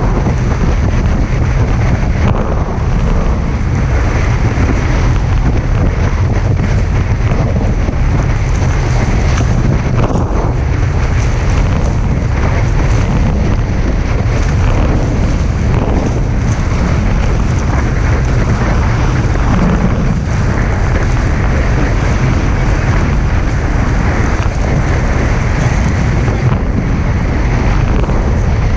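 Strong wind buffeting the microphone with no letup, over water rushing past the hulls of a Hobie 16 catamaran sailing fast in high wind.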